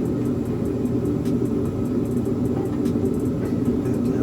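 A steady low mechanical hum, with a few faint clicks of hand tools on metal as header bolts are worked in.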